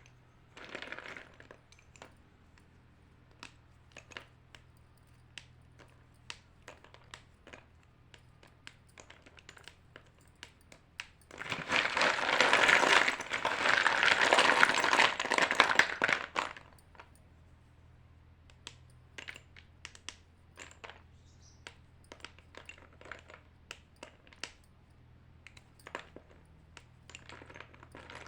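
White chalk snapping and crunching: scattered sharp cracks throughout, with a loud continuous crunching stretch of about five seconds roughly halfway through as the chalk is crushed.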